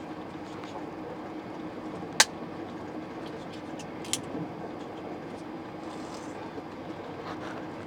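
Steady running noise of a passenger train, heard from inside the carriage, with a sharp click about two seconds in and a fainter one about four seconds in.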